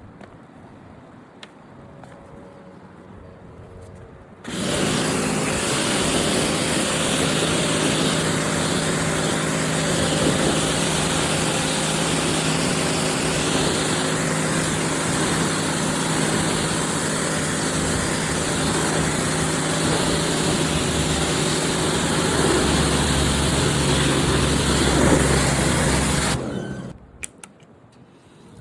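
Pressure washer starting about four seconds in and running steadily for some twenty seconds: a motor hum under the loud hiss of the water jet. It cuts off a couple of seconds before the end.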